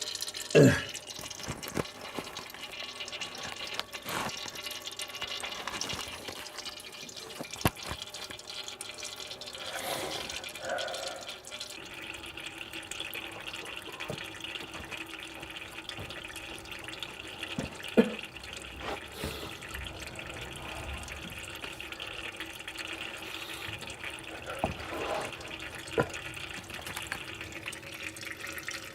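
Watery engine oil running in a steady stream out of the sump drain of a Toyota Hiace's 1600cc engine into a container, with a few sharp knocks. The sump holds mostly water, which the owner fears may mean a failed head gasket.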